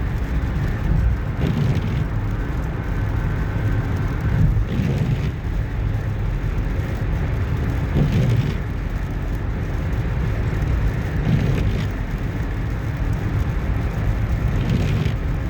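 Car moving at highway speed: steady low tyre and engine rumble, with a hiss that swells briefly every few seconds.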